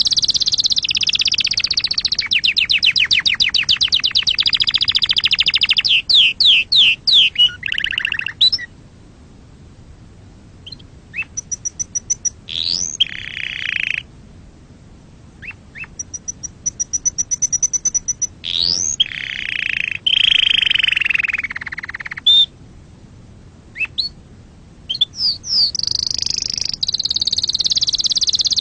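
Domestic canary singing: long, very rapid high trills and rolls alternating with quick sweeping whistled notes, broken by a few short pauses in the middle before a fast trill starts again near the end.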